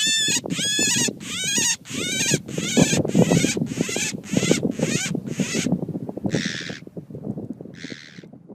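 A bird giving harsh, repeated calls about twice a second over continuous low rustling and scuffling. After about six seconds the calls thin out, with two last ones near the end.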